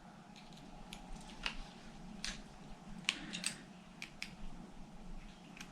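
Irregular light clicks and taps of small metal parts being handled as a model nitro engine is taken apart by hand, over a faint steady hum.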